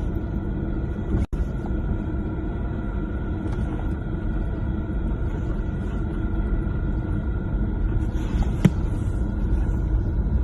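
Steady low rumble of a car driving, as picked up by a dashcam, with a brief break about a second in and a single sharp click near the end.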